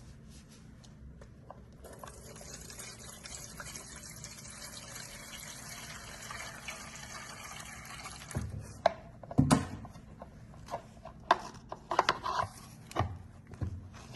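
Ethanol being poured through a cut plastic-bottle funnel into an aluminium pan, a steady trickle. From a little past halfway it gives way to a series of sharp knocks and clatters, the loudest sounds here.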